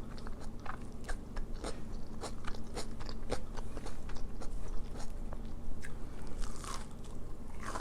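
Close-up crunching and chewing of a crispy, oven-baked breaded onion ring: a quick, irregular run of sharp crackly crunches.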